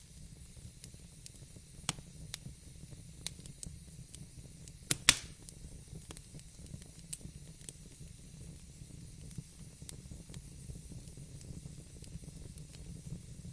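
Wood fire crackling in a fireplace: a steady low rumble of flames under sharp pops every second or two. The loudest is a double pop about five seconds in.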